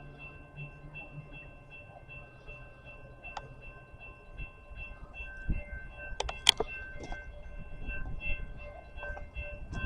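CSX freight train approaching, its low rumble building toward the end, over a steady, regularly pulsing ringing. A few sharp clicks a little past the middle.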